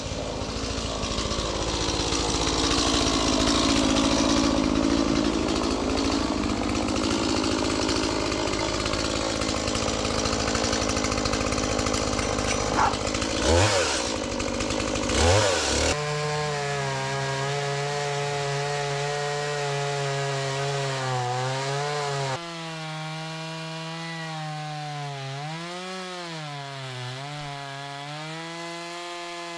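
Stihl gas chainsaw cutting into oak rounds, its engine note wavering as the chain loads up in the wood. About halfway through and again a few seconds later the sound changes abruptly to a cleaner engine note that rises and falls with the throttle.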